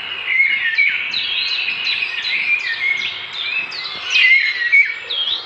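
Small birds chirping: a busy run of quick, high chirps that slide downward in pitch, several overlapping at once.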